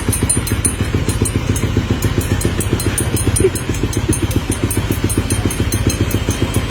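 A vehicle engine idling steadily with a rapid, even low pulse and a light ticking above it: the noise whose source is being sought.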